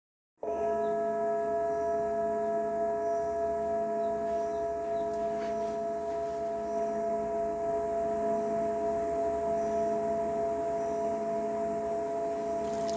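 Singing bowl ringing a steady, sustained tone with several unevenly spaced overtones and a slow wobble. It starts abruptly about half a second in.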